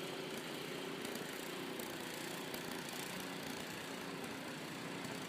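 A small engine running steadily, an even hum with no change in speed.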